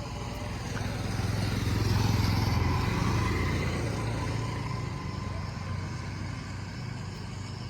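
A motor vehicle's engine running, growing louder to a peak about two seconds in and then fading, as a vehicle passing close by does.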